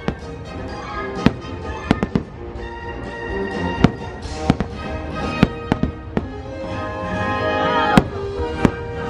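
Aerial fireworks bursting: about a dozen sharp bangs at uneven intervals, one to three a second, over the show's soundtrack music.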